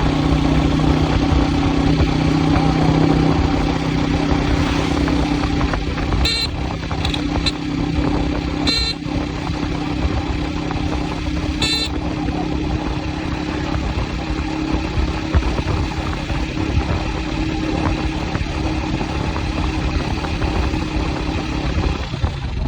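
A motor vehicle's engine running steadily, with several short horn beeps a third to halfway through.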